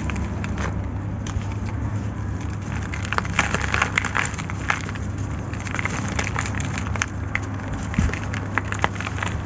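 Dry, gritty sand-cement or concrete pieces being crumbled and crushed: a continuous crunching with many sharp, irregular cracks and crackles.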